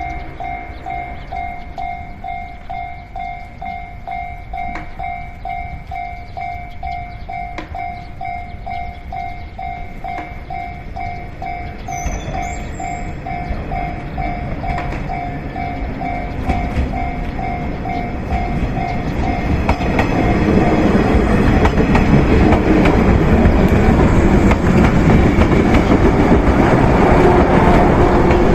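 A Japanese level-crossing warning bell rings at about two beats a second. The noise of an approaching JR West 103 series electric train builds beneath it, and about two-thirds of the way through the train's passing, with wheels clacking over the rail joints, drowns the bell out.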